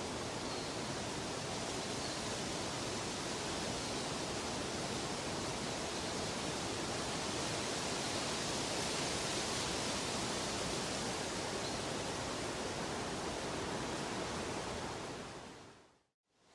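Steady, even rushing noise of a nature ambience, like falling or flowing water. Near the end it fades out to a moment of silence, then begins to fade back in.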